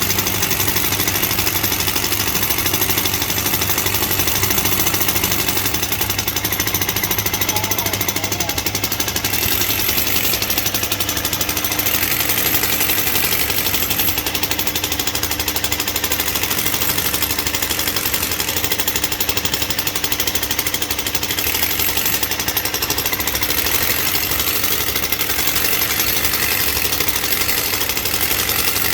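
Rock drill hammering rapidly and continuously at a steady level.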